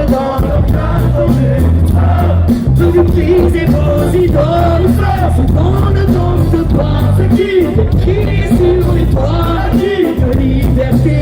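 Live concert music: a heavy, steady bass under a sung vocal melody, with no rapped words.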